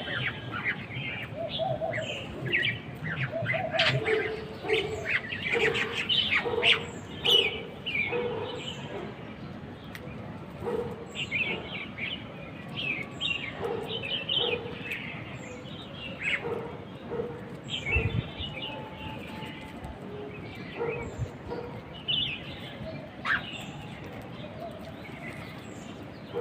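Small birds chirping: many short, quick calls in irregular runs throughout.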